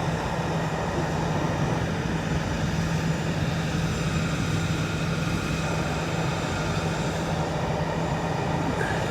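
A steady machine drone with a constant low hum, unchanging throughout.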